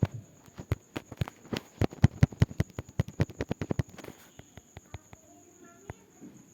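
A rapid run of sharp clicks or knocks, several a second, thinning out to scattered single clicks about four seconds in, with a faint steady high-pitched tone underneath.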